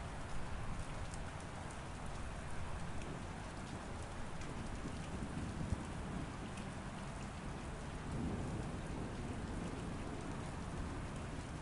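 Steady rainfall with patters of drops, and low rumbles of thunder swelling midway and again a little later.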